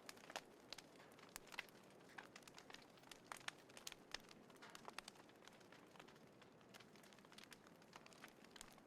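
Small wood fire crackling quietly in a compact folding fire pit: irregular sharp pops and snaps, several a second at times, over a faint steady hiss.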